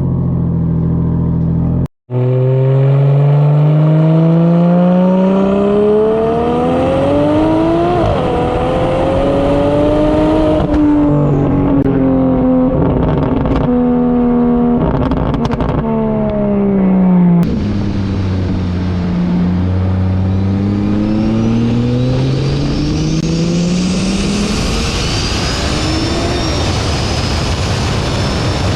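BMW 335i's N54 inline-six, converted to a big single turbo with a catless downpipe, accelerating hard: the engine note climbs, dips briefly at a gear change about 8 s in, then falls away. After a cut it pulls again, rising, with a high turbo whine rising over it near the end. The car is running on wastegate boost.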